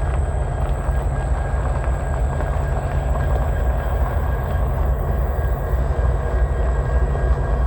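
Union Pacific freight train passing, with a steady, loud rumble of wheels on the rails.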